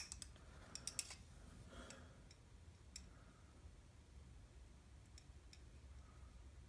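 Faint small metallic clicks and ticks from a hand tool: a small pick probing the oil hole of an engine main bearing. A quick cluster of clicks in the first second, then a few single ticks, over a low steady hum.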